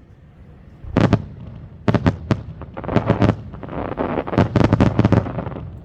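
Aerial firework shells bursting. A first bang comes about a second in, then a quickening string of bangs with a crackling hiss among them.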